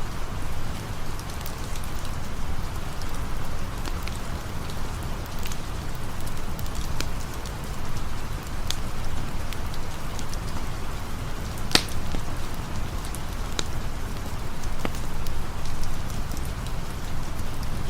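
Steady rain falling, with occasional sharp campfire crackles scattered through it; the loudest pop comes about twelve seconds in.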